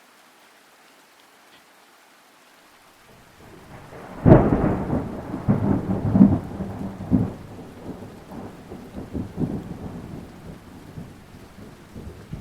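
A loud thunderclap over steady rain. A low rumble builds about three seconds in and breaks into a sharp crack, then rolls on in several surges and slowly fades.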